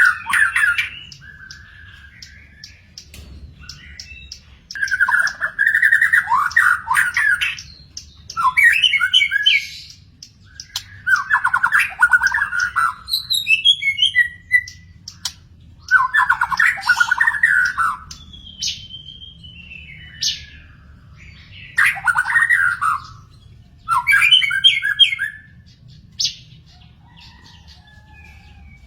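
Murai songbird singing: a string of loud, varied phrases of quick chattering and whistled notes, each a second or two long, separated by short pauses.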